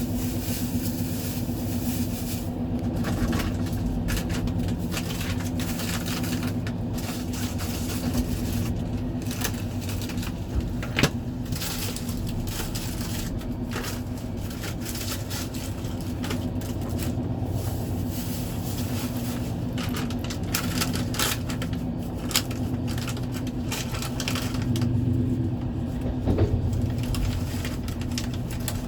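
Passenger train running, heard from inside the carriage: a steady rumble and hum with frequent rattles and clicks from the wheels and coach, and a sharper knock about 11 seconds in.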